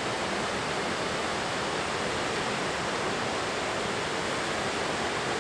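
Steady rushing of a waterfall, an even roar of falling water with no other sound standing out.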